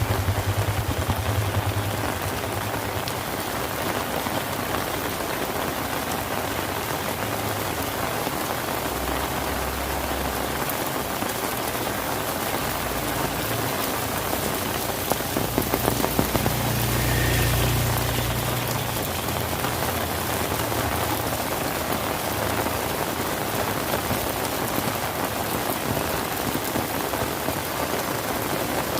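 Steady rain falling on surfaces, an even rushing hiss, with low rumbles swelling up about ten and sixteen seconds in.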